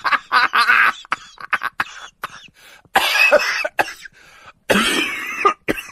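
A person coughing: laughter tailing off at the start, then two rough coughing bursts about a second and a half apart.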